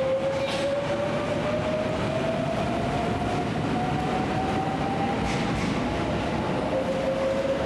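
Electric train moving at a station: a steady rumble with a motor whine that rises slowly in pitch for about five seconds, as a train pulling away does. A second, steadier whine joins near the end.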